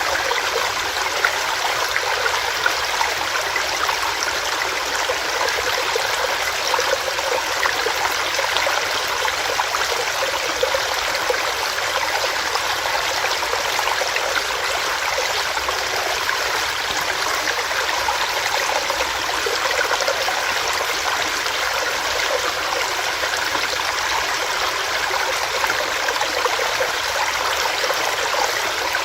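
Small rocky stream running steadily over stones, an even splashing and trickling rush with no pauses.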